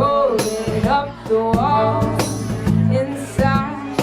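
A live rock band playing: drums hitting steadily under a sustained bass line, with a melody line that bends in pitch.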